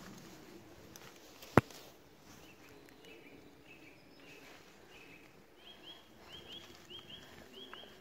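A songbird repeating a short high two-note phrase again and again, coming faster after about five and a half seconds. A single sharp click about a second and a half in is the loudest sound.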